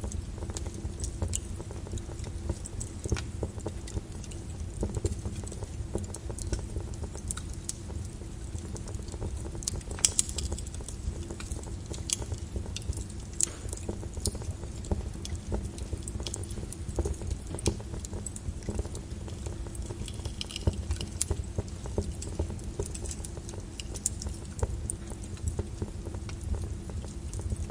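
Lava crackling with irregular sharp clicks and cracks as its cooling crust breaks, over a steady low rumble; one sharper crack comes about ten seconds in.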